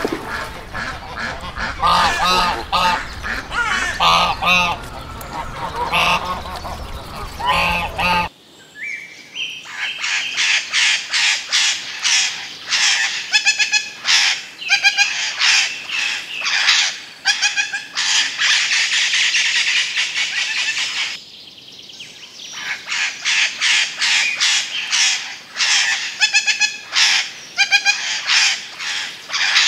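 Waterfowl honking over a low background hum. About eight seconds in the sound cuts to a flock of birds calling in rapid, high, repeated notes that go on with only a brief lull.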